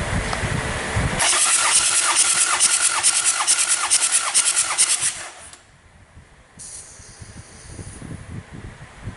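Hyundai D4BH diesel engine turned over on its starter motor for about four seconds with an even rhythmic pulsing, as during a compression test, then stopping abruptly. A short hiss follows about a second later.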